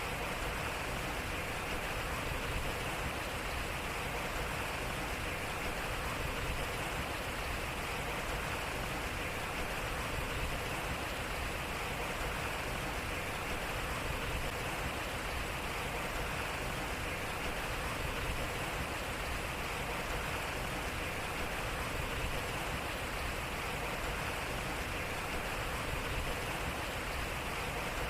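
Water flowing and splashing steadily at a turning water wheel, an even rushing sound with no knocks or creaks.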